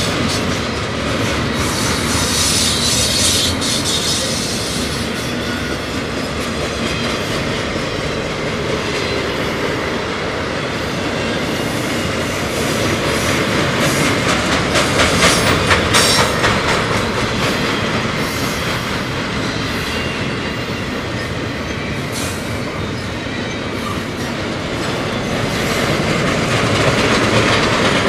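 Double-stack intermodal container train rolling past at speed: a steady rumble and rattle of wheels and well cars. There is a brief high-pitched wheel squeal a few seconds in, and a run of sharp clicks of wheels over rail joints around the middle, where it is loudest.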